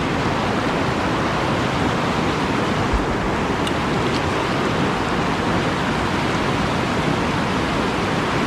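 Whitewater rapid rushing steadily, a dense even wash of river water with no letup. A brief dull bump about three seconds in.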